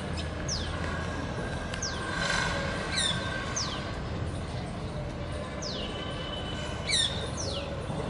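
Bird calls: a high, thin call that falls in pitch, repeated about every two seconds, with two louder, sharper calls about three and seven seconds in.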